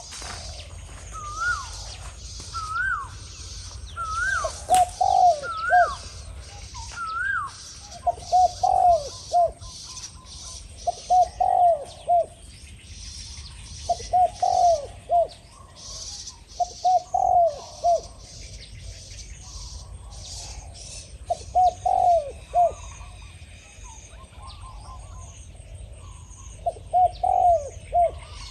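Spotted doves cooing: short clusters of coos repeating about every three seconds, a wild dove and a caged decoy calling to each other. Higher rising whistle-like notes come in the first several seconds, over a steady high chirring of small birds or insects.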